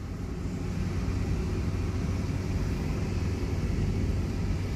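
Aircraft tow tractor's engine running steadily while pulling an Airbus A330-300, heard as an even low rumble with a hum.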